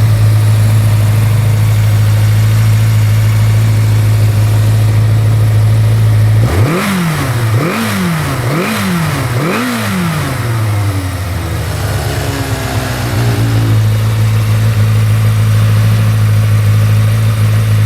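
1986 Yamaha YX600 Radian motorcycle's inline-four engine idling steadily, revved four times in quick succession about a third of the way in, each rev rising and falling back, then settling to idle again.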